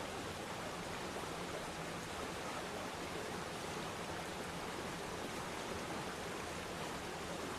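Waterfall splashing down into a pool: a steady, even rush of falling water without change.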